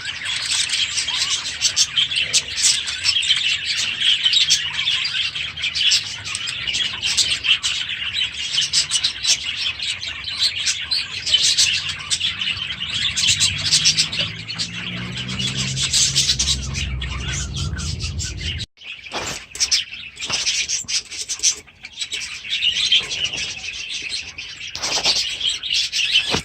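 A flock of budgerigars chattering and chirping continuously. The sound drops out for a moment about two-thirds of the way in, then the chatter resumes.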